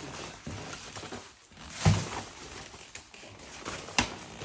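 Textile motorcycle jacket being handled: fabric rustling, with two sharp knocks about two seconds apart, the first one louder and with a low thud.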